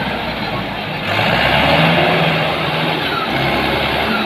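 Tractor diesel engine running steadily under power, with a low, constant drone.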